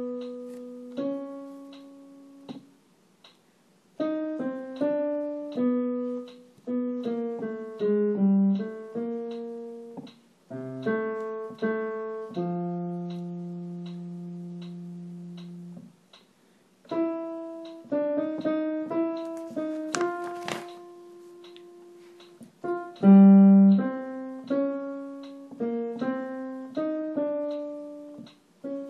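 Piano playing the tenor voice part of a choral arrangement as a single melody line, one note at a time, with a few short pauses and one long held low note in the middle. A brief click about two-thirds of the way through.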